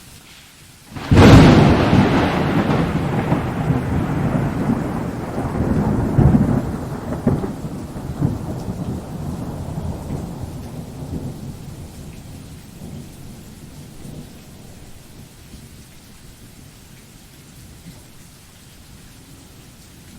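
A thunderclap cracks about a second in and rolls on, swelling again a few seconds later, then rumbles away over about ten seconds. Steady rain hisses underneath.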